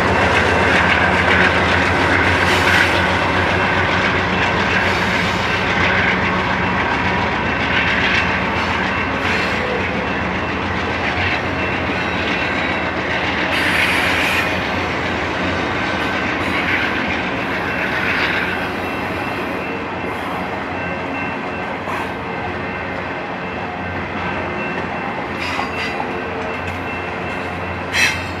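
Slow-moving intermodal freight train rolling by, with wheels clacking over rail joints and a steady high squeal of wheels on the rail. A single sharp clank near the end.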